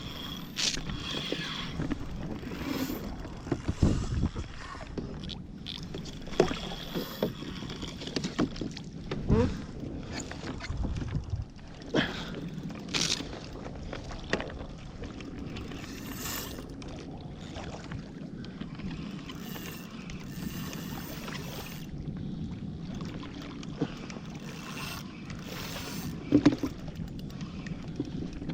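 Kayak out on the sea: water sloshing and splashing against the hull, with irregular knocks and a few louder thumps.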